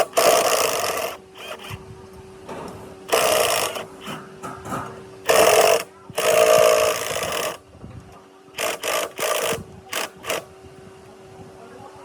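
Power tool run in short bursts, several on-off triggers of a second or two each, over a steady mechanical hum.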